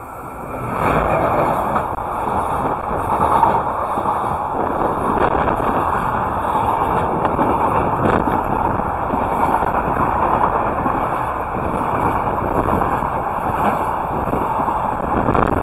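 Electric-hauled container freight train passing close by. The locomotive goes past about a second in, followed by the steady rolling rumble and rattle of the Koki 104 container flatcars' wheels on the rails, with occasional light clicks.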